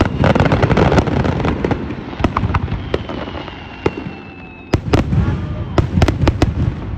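Aerial fireworks shells bursting: rapid crackling and sharp bangs, densest in the first second and again in a flurry about five seconds in, with a thin whistle in between.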